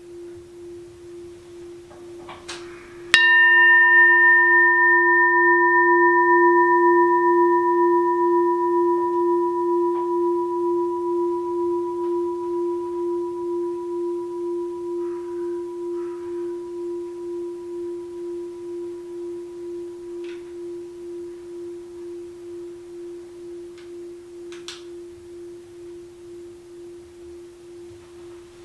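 Six-sun Daitokuji rin, a brass Buddhist bowl bell with a bottom dented from being dropped, struck once about three seconds in. It rings with a pulsing low hum and higher overtones that fade slowly over the next twenty-odd seconds.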